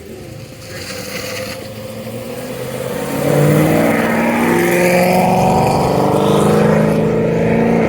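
A car's engine accelerating hard as it drives past, growing louder over the first three seconds, then holding loud with a steadily rising pitch. The pitch drops sharply near the end.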